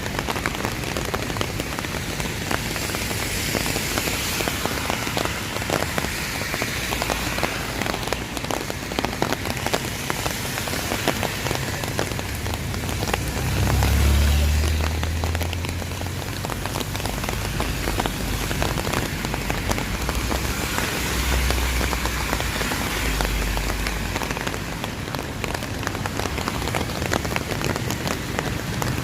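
Steady rain falling and hitting surfaces, with many sharp drop ticks. A low rumble swells and fades about halfway through, and a fainter one follows a few seconds later.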